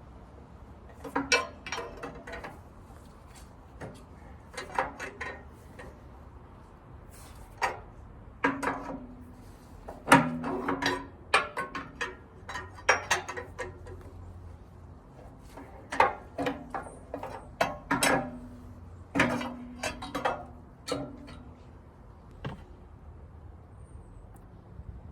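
Hand tools working on the metal parts of a dismantled generator: irregular runs of sharp clicks and clinks, some ringing briefly like struck metal, in bursts a second or two apart.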